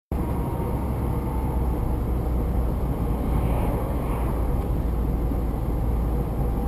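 Steady low rumble of a moving vehicle's engine and tyres on the road, even throughout with no impacts.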